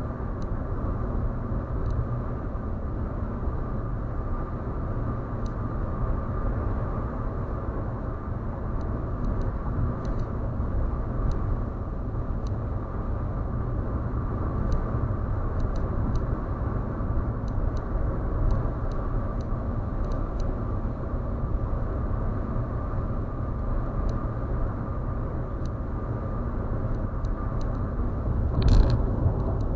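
Steady road rumble of a vehicle travelling along an expressway, with a faint steady whine running through it. A brief louder swell comes near the end.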